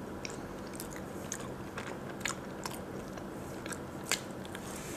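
Close-up chewing of a pan-fried hotteok: a scatter of small mouth clicks as the pancake is chewed, one sharper click about four seconds in.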